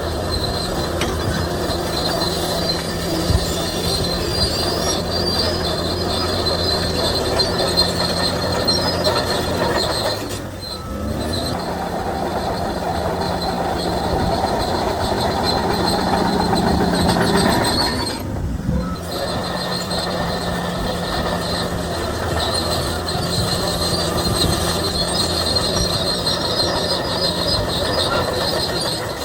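Shantui DH17C3 crawler bulldozer working: diesel engine running steadily under the squeal and clatter of its steel tracks. The sound dips briefly twice, about a third and about two thirds of the way through.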